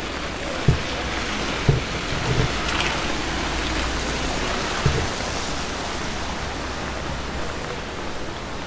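Steady rain falling, an even dense hiss, with a few soft low thumps in the first half.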